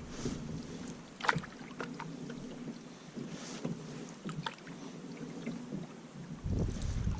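Canoe paddle strokes in water, with a few sharp knocks of the paddle against the hull. Wind buffets the microphone from about six and a half seconds in.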